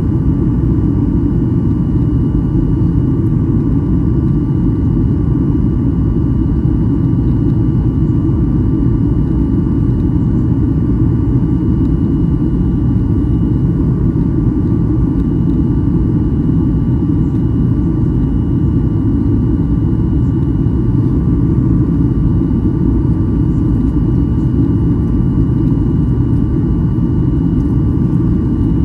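Steady cabin noise of a Boeing 737-800 in flight: a constant low rumble of airflow and engine drone, with faint steady whines above it.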